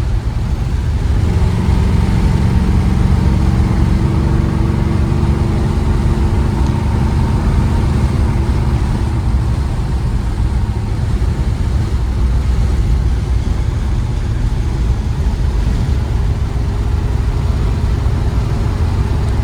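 Car engine and road rumble heard from inside the cabin while driving. A steady engine note rises out of the low rumble about a second in and fades back into it about halfway through.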